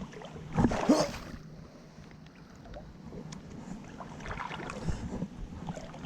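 Creek water sloshing and splashing around someone wading, with a louder burst about a second in.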